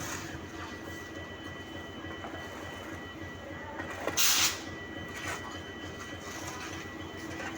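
WDG4 diesel locomotive's 16-cylinder two-stroke EMD engine running with a steady, low throbbing hum and a constant whine. About four seconds in comes a brief, loud hiss, then a smaller one a second later.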